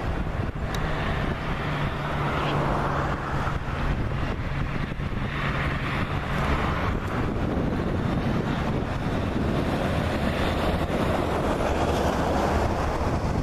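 Jet engines of a Boeing 737 MAX 8, CFM LEAP-1B turbofans, running as a steady rush of noise with a faint low hum, mixed with wind buffeting the microphone.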